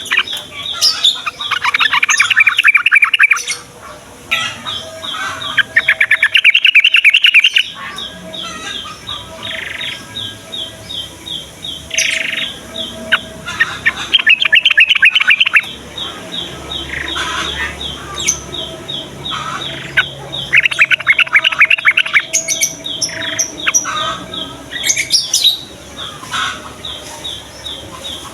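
Sooty-headed bulbuls singing: a steady string of short, high chirps, broken four times by loud, fast chattering trills that last a second or two each.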